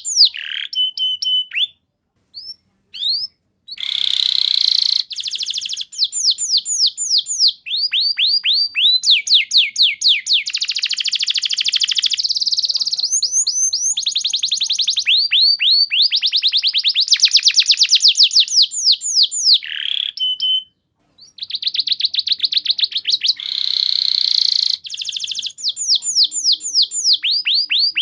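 Domestic canary singing long, fast trills: runs of many quick, repeated downward-sweeping notes, each run switching to a new note type, broken only by short pauses about two seconds in and about twenty seconds in.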